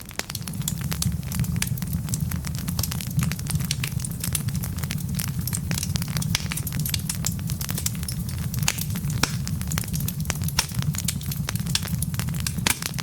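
Wood fire of burning logs crackling, with frequent sharp pops and snaps over a steady low rumble of the flames.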